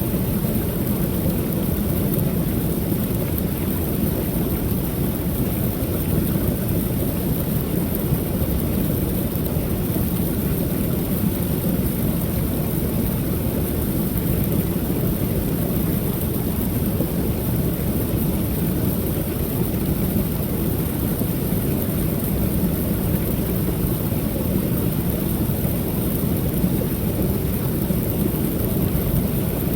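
Waterfall on a creek: water pouring over the falls in a steady, deep rush, heaviest in the low range.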